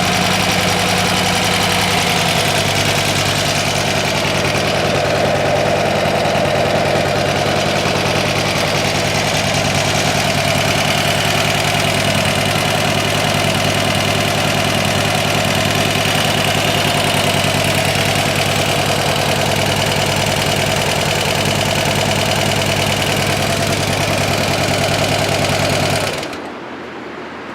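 2013 Harley-Davidson FLHTCU Electra Glide Ultra Classic's air-cooled Twin Cam 103 V-twin engine idling steadily, then stopping abruptly near the end.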